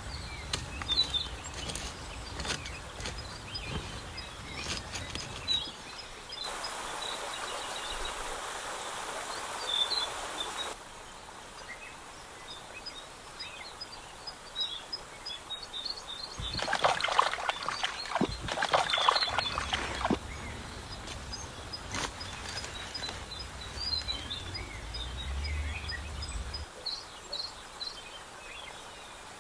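Outdoor ambience with small birds chirping repeatedly. A few seconds of steady hiss and, a little past halfway, a burst of close clicks and rustling.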